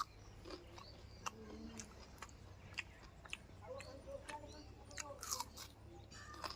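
A person chewing food close to the microphone, with irregular soft mouth clicks.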